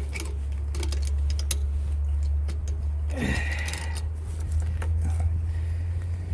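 Irregular small clicks and taps from hands working on electrical wiring, connecting wires in an outlet box, over a steady low rumble. A brief louder scrape or rattle about three seconds in.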